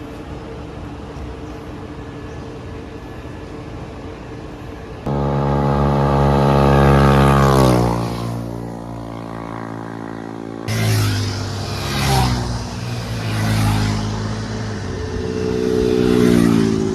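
Sport motorcycle engines accelerating past. A steady engine drone for the first few seconds, then about five seconds in a loud engine that climbs in pitch and then drops away as it passes. A second loud engine comes in about eleven seconds in, revving up and down and rising once more before falling off near the end.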